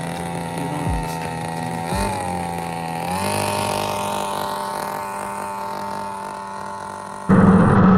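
Engine running steadily, rising in pitch about two and three seconds in. Near the end it cuts abruptly to a louder, rougher engine sound.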